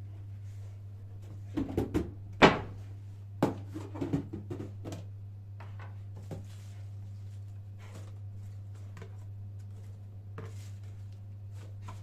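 A cluster of knocks and clatters from objects being handled and set down, the loudest about two and a half seconds in, then a few lighter taps, over a steady low hum.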